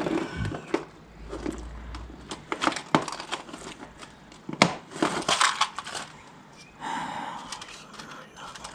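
Small metal parts being handled: irregular sharp clicks, rattles and rustling as small split pins are picked through and tried.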